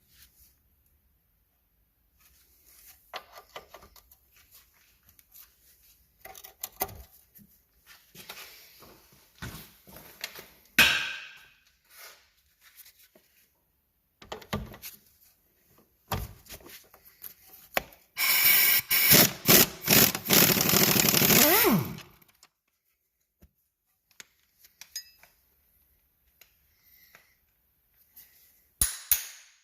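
Workshop work on a car's suspension: scattered knocks, clinks and rubbing of hand tools and parts, and, about eighteen seconds in, a power tool running in loud rapid bursts for about four seconds.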